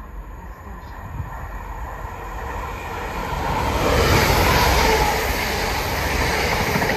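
Chiltern Railways diesel multiple unit passing along the platform: diesel engine and wheels on the rails growing louder as it approaches, loudest from about four seconds in.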